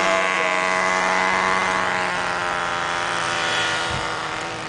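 A Nine Eagles Solo Pro V2 four-channel RC helicopter's small electric motor and rotor whining steadily in flight, easing slightly near the end.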